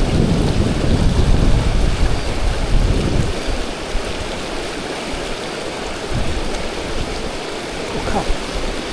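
Rushing river water, a steady hiss, with wind buffeting the microphone as a heavy low rumble for the first three seconds or so.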